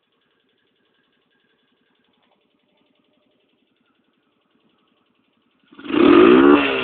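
Italika FT150 GT motorcycle's single-cylinder four-stroke engine, fitted with an aftermarket high-flow air filter, idling barely audibly, then revved hard near the end: one loud throttle blip rising in pitch that starts to drop away just before the end.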